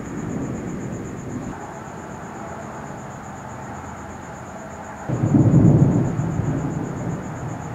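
Thunder rumbling: an earlier roll dies away, then a new, louder low rumble breaks in about five seconds in and slowly rolls off.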